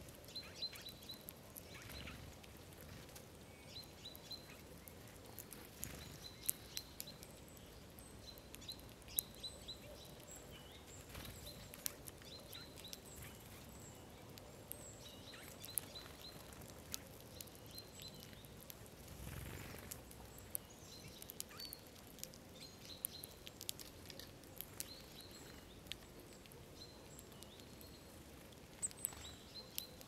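Eurasian bullfinches and great tits pecking and cracking sunflower seeds on snow: irregular sharp clicks, with short high chirping calls in little groups throughout. A brief soft whoosh comes about two-thirds of the way in.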